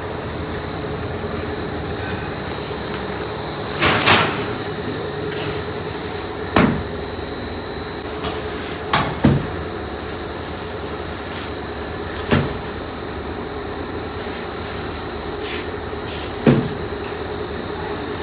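Factory machinery running steadily with a high whine, broken by several sharp clanks at irregular intervals, a double one about halfway through.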